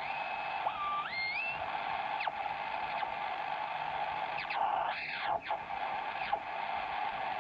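Kenwood TS-120 HF transceiver's receiver audio through its added 8.83 MHz crystal IF filter: steady band hiss, with whistling tones that step and slide in pitch, heterodynes from tuning across signals on the band.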